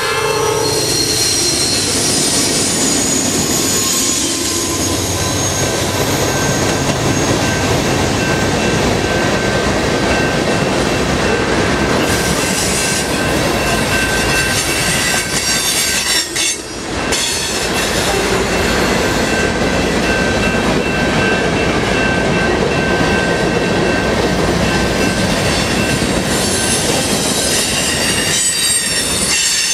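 Freight train rolling past: the locomotive, then boxcars and tank cars, with steady wheel rumble and clatter and high-pitched wheel squeal ringing over it. A locomotive horn's chord dies away right at the start.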